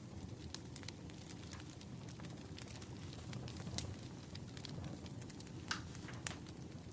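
Wood fire crackling: irregular sharp pops and snaps over a steady low rumble, with a couple of louder pops about four seconds in and near the end.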